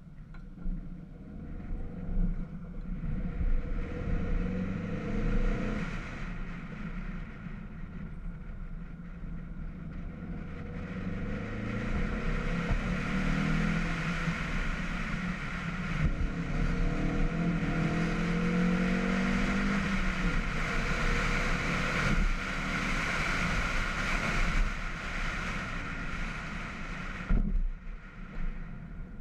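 Volkswagen Scirocco engine pulling through the gears, its pitch climbing in several rises. A rush of wind noise builds as the car gathers speed and drops away suddenly near the end.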